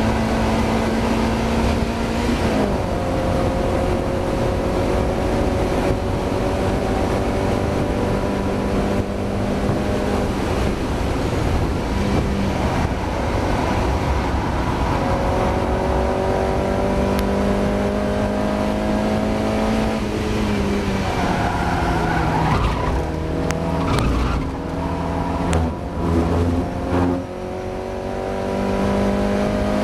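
Mazda MX-5 four-cylinder engine running hard at high revs under race acceleration. The pitch climbs slowly through each gear and drops at shifts about two seconds in and again around twenty seconds. Near the end the note falls away and stutters under braking and downshifts, then pulls up again. The engine is misfiring.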